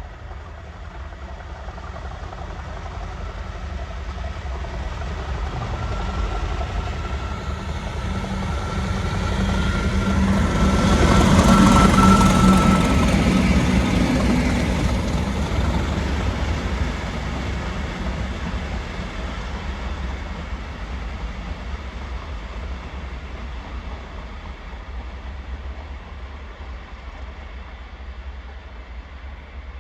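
A Class 170 Turbostar diesel multiple unit approaches and passes. Its engine and rail noise build to a peak about twelve seconds in, with a steady whine near the peak, then fade slowly as it draws away.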